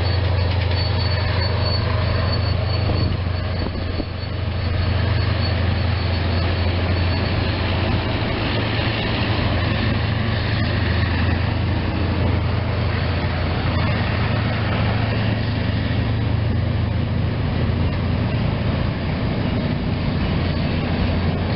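A rail work train's flatcars and trailing passenger coach rolling past on jointed track, with a steady low rumble throughout and a thin, high wheel squeal over the first several seconds.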